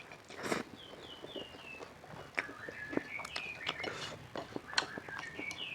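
Close-miked eating sounds: irregular crunchy clicks and smacks of chewing. Behind them a bird chirps repeatedly, short high notes that step down in pitch.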